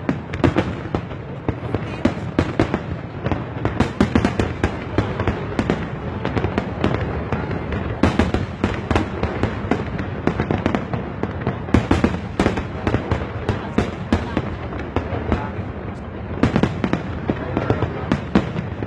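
Fireworks display: aerial shells bursting in a continuous barrage of bangs, several a second, thickening into heavier volleys about every four seconds.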